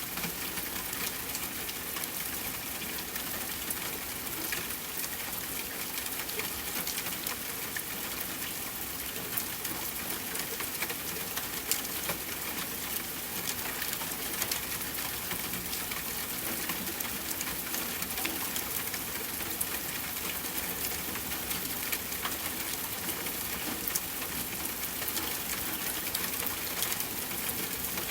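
Steady rain falling, with scattered sharp crackles of a wood fire burning in a fireplace.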